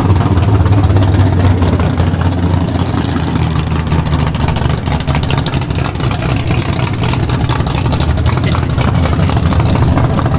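A vehicle engine idling loudly and steadily.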